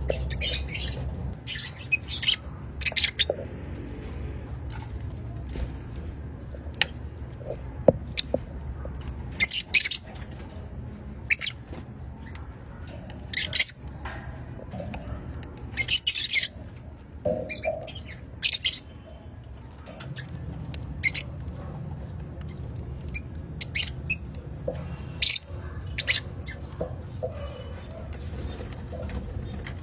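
Red factor opaline lovebirds giving short, shrill squawks and chirps at irregular intervals, every second or two, over a low steady hum.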